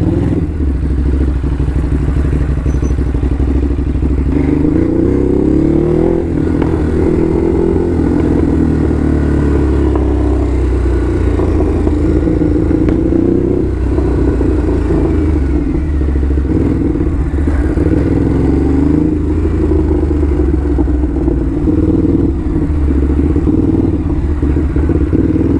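Ducati Hypermotard SP's L-twin engine running while riding, its revs rising and falling as the rider accelerates and eases off, with wind rush underneath.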